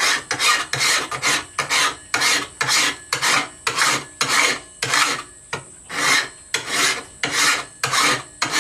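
Hand file rasping along the edge of a steel sword blade in quick repeated strokes, about two to three a second, with a brief pause about five and a half seconds in. The file is taking down the high points of a wavy edge to make it straight.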